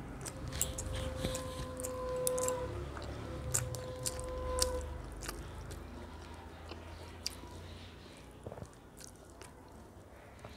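Close-up wet chewing and mouth clicks of a person eating rice mixed with vegetable curry by hand, with two long steady tones in the first half. The clicks thin out in the last few seconds.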